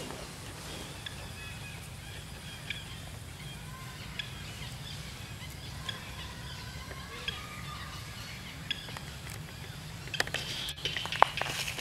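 Outdoor ambience of scattered faint bird chirps over a steady low hum, with a flurry of sharp clicks and short high calls near the end.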